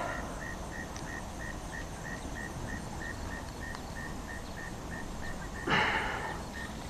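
An insect chirping in an even, steady rhythm, about three short high chirps a second, over a low background hiss. About five and a half seconds in, a brief rush of noise cuts across it.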